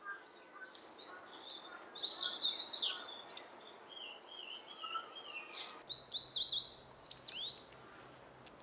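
Songbirds singing: two quick bursts of high, rapidly gliding notes about two and six seconds in, with a softer warbling run between them.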